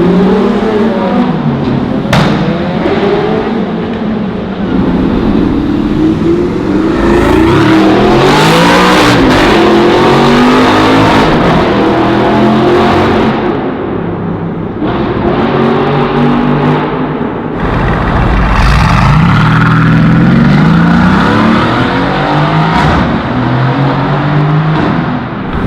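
High-performance sports car engines revving and accelerating hard, the engine note climbing and falling in pitch several times as cars pull away one after another.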